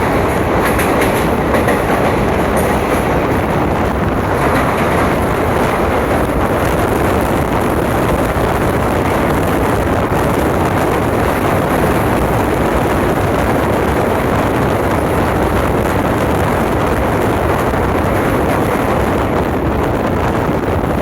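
Passenger train running along the track, heard from on board: a steady, loud rumble of wheels on rails.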